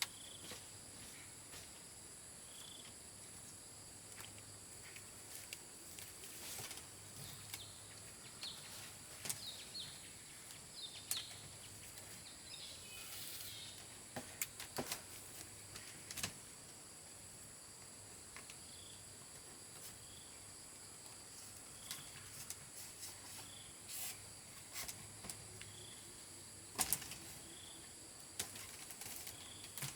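Insects trilling steadily, with a short chirp repeating about once a second, and scattered clicks and knocks throughout.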